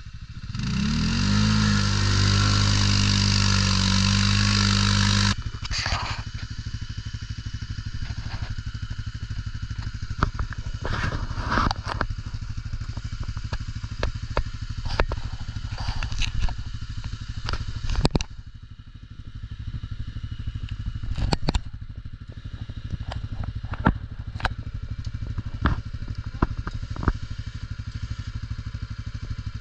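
ATV engine revving up sharply and held at high revs for about five seconds, then cut off abruptly to a low, steady running note. Through the rest, frequent sharp knocks and clattering sound over the engine.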